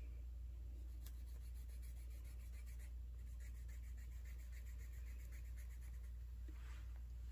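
Pen nib scratching across paper in quick, regular strokes, about nine a second, in two runs with a short break between them, and a brief rub near the end. A steady low hum lies under it.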